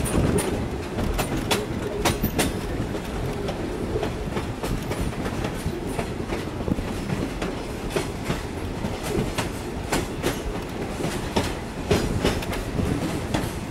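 Train wheels rolling on jointed track, heard from an open car: a steady rumble with sharp, irregularly spaced clicks of the wheels over rail joints, bunched near the start and again about ten seconds in.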